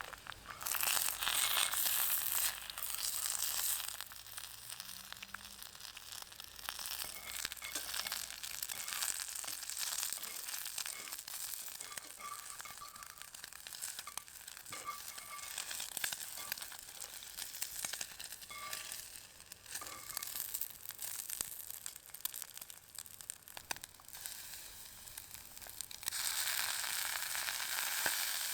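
Food frying and sizzling in a pan over a campfire: a steady hiss with small crackles that swells louder about a second in and again near the end.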